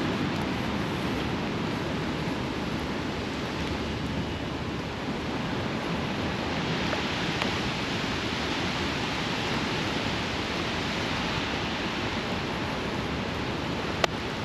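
Steady hiss of rain falling, with a low rumble underneath and a single sharp click near the end.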